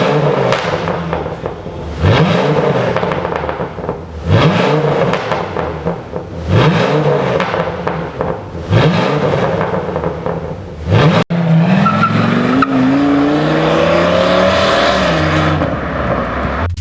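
Ford F-350 pickup engine revving through an aftermarket dual valved exhaust: short throttle blips about every two seconds, then one longer rev that climbs in pitch and falls away.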